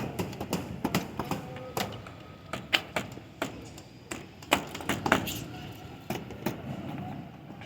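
Irregular sharp knocks and taps of wood framing work, timber and tools striking wood, with a few louder hits.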